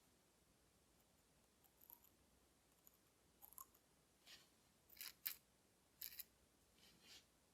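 Faint, short scratches and clicks from small hand tools working on tiny watch parts, about seven or eight of them spread unevenly, with near silence between.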